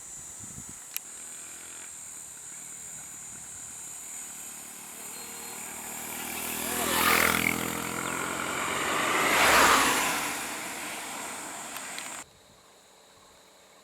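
Two motor vehicles passing one after the other, each engine sound swelling and then fading, over a steady high insect drone. The sound cuts off abruptly near the end.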